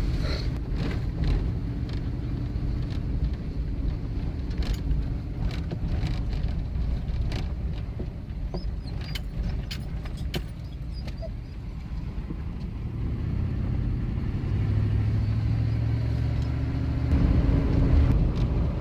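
A vehicle driving on a bumpy gravel and dirt road: engine and tyre rumble with scattered knocks and rattles. In the second half the engine hum grows steadier and louder.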